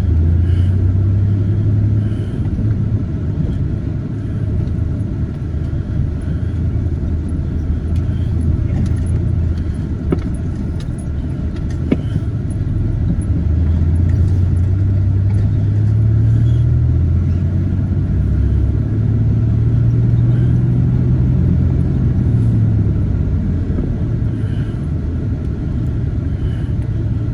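Vehicle engine running at low speed, a steady low rumble that rises and falls slowly in pitch, with a couple of faint clicks about a third of the way in.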